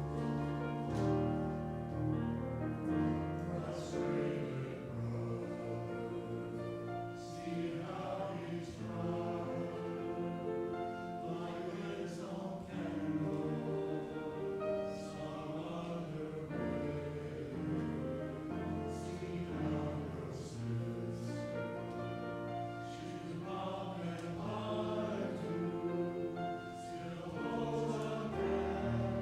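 Choir singing with instrumental accompaniment, in long sustained chords.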